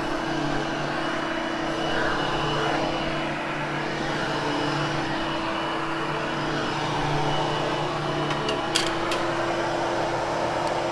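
Hoover Hushtone vacuum cleaner running steadily as it is pushed over damp, freshly cleaned carpet to groom and lift the pile. Its low motor note shifts a little with the strokes, and there are a couple of sharp clicks near the end.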